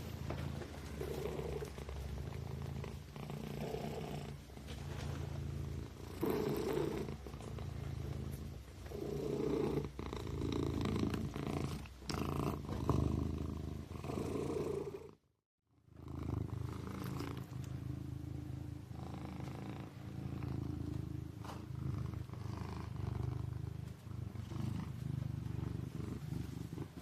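Kitten purring, a steady low rumble that swells and eases about every three seconds with its breathing. The sound breaks off for about half a second about halfway through.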